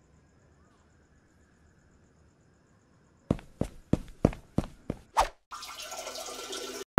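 Faint crickets, then a quick run of about seven sharp knocks over two seconds, coming closer together. Then a toilet flushing, with water rushing steadily into the bowl.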